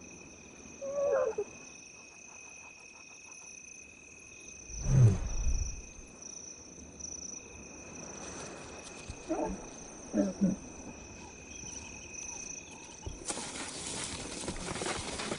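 Lioness giving a soft, low contact call about five seconds in, with a few short, higher calls before and after it. These are the calls that tell hidden cubs it is safe to come out. Crickets chirr steadily behind them, and a rustling hiss rises near the end.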